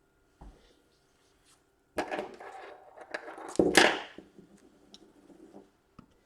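Adhesive tape being pulled off its roll and pressed down inside an opened laptop: two noisy tearing sounds about two seconds in and again near four seconds, with small clicks and rustles of handling around them.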